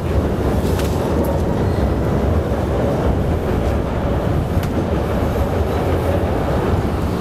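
Elevated rapid-transit train running along its overhead steel structure: a steady, heavy rumble.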